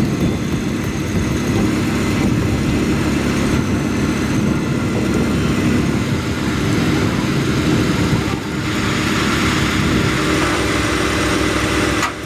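Heavy vehicle engine running steadily with a dense low drone, cutting off abruptly near the end.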